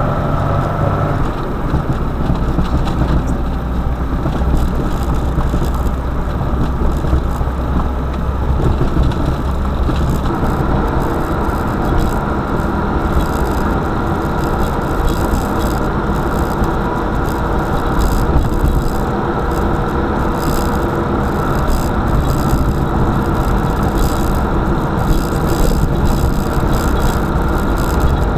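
A car being driven: steady engine and road noise with scattered light clicks. The low engine drone shifts about ten seconds in.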